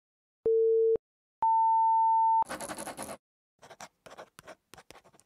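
Electronic countdown beeps like a race start signal: a short lower beep, then a longer beep about an octave higher. A brief burst of hissy noise follows, then a run of quieter, irregular clicks.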